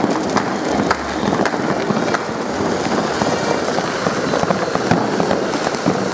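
Fireworks going off: a ground fountain firework spraying sparks with a dense, steady crackling hiss, and many sharp pops mixed in.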